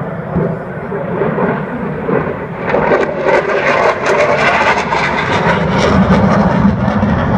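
Jet aircraft flying past, its engine noise growing louder about two and a half seconds in.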